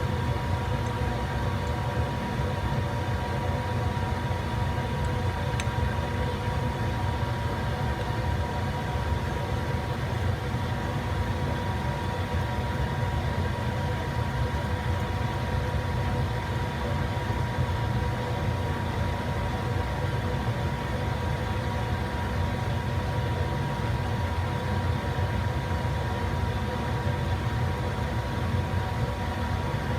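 Monarch 10EE lathe running steadily, a constant low hum with a steady higher tone over it.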